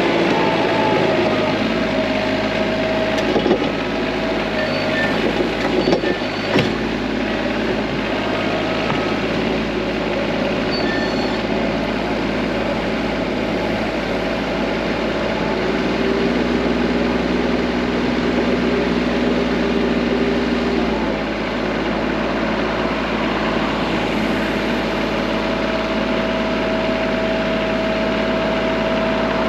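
TYM T25 compact tractor's diesel engine running steadily under load while it clears snow with its front bucket. A few short knocks come in the first quarter, and a second, lower steady tone joins for about five seconds past the middle.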